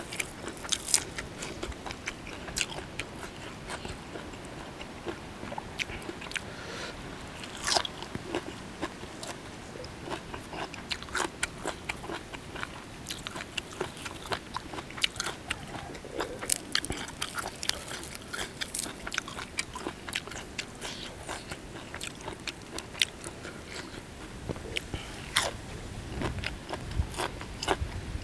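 Close-up chewing of golden apple snail salad (koi hoi cherry) with fresh herbs, with many sharp, crisp crunches and bites scattered irregularly; the snail meat is crunchy.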